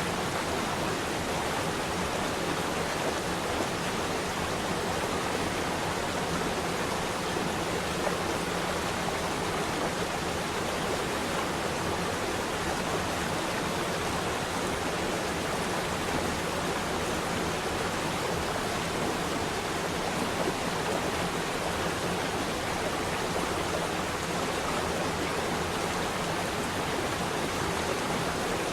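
Running water flowing steadily: an even, unbroken rush with no separate splashes or pauses.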